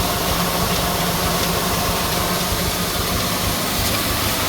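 Tractor engine ticking away at a steady idle.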